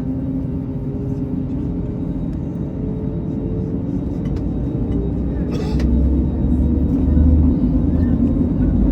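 Airbus A321 jet engines heard from inside the passenger cabin: a steady drone with a few held tones over a deep rumble, growing louder, with the rumble stepping up about two-thirds of the way through.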